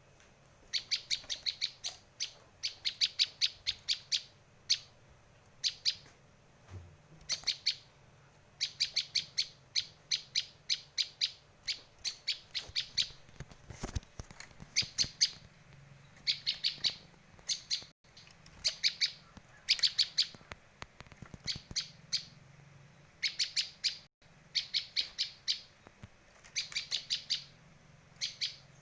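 Prenjak lancur (a prinia) calling: repeated bursts of rapid, sharp, high chirps, each burst under a second long, coming every one to two seconds.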